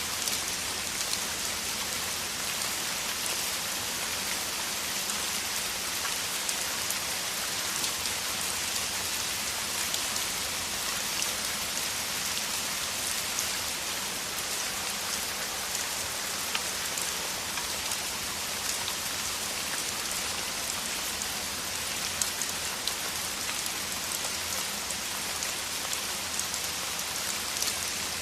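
Steady downpour of rain: a dense, even hiss of falling rain with many separate drop impacts ticking through it.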